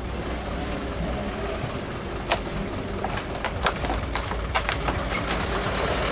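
Lowered car's engine rumbling as it moves slowly, with a string of sharp, irregular clicks and knocks from about two seconds in.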